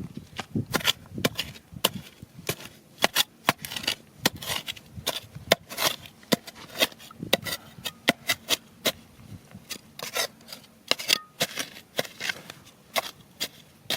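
Irregular sharp knocks and scrapes, a few per second, of digging among stones and gravel.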